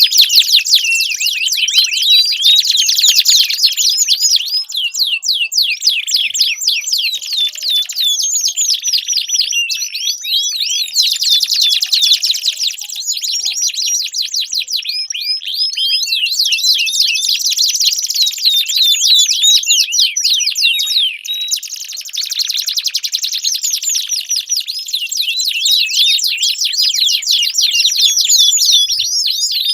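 Domestic canary singing a long, unbroken song of rapid high-pitched trills and rolls, switching from one fast trill to another every second or two.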